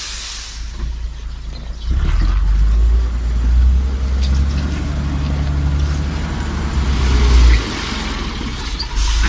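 Heavy diesel truck engine working hard, a loud low drone that comes in about two seconds in and drops off suddenly near the end.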